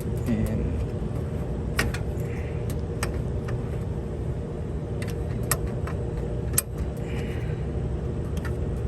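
Scattered small metallic clicks and taps as multimeter test-lead clips are handled and attached to an AC run capacitor's terminals, over a steady low engine-like rumble.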